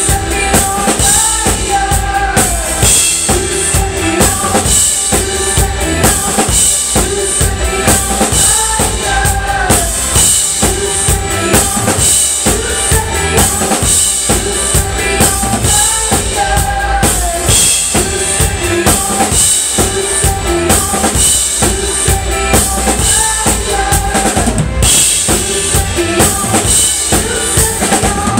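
Live band playing a pop-rock song at full volume, with a drum kit keeping a steady beat on bass drum and snare under a wavering melody line.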